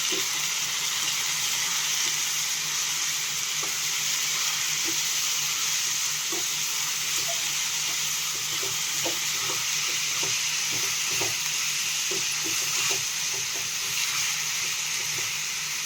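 Chicken pieces frying in hot oil with onion and tomato, a steady sizzle, while a spoon stirs them in the pan with scattered light knocks and scrapes.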